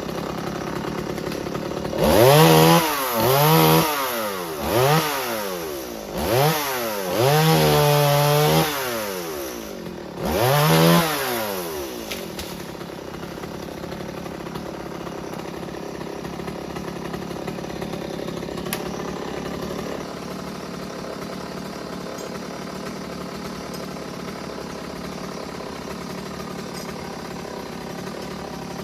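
Chainsaw engine revved about six times in quick throttle bursts, the pitch rising and falling each time and one rev held high for about two seconds, then dropping back to a steady idle for the rest of the time.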